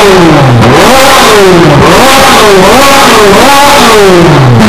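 Ferrari 458 Spider's 4.5-litre V8 blipped repeatedly through an Armytrix titanium valvetronic exhaust: about five quick free revs, the pitch climbing and falling each time. The revs die back toward idle near the end.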